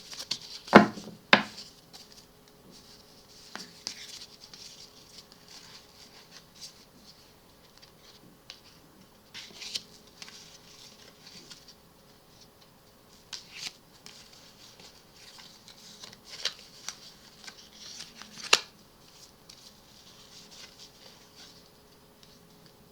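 Tarot cards being handled and shuffled: soft sliding rustles broken by sharp card snaps and taps, the loudest about a second in.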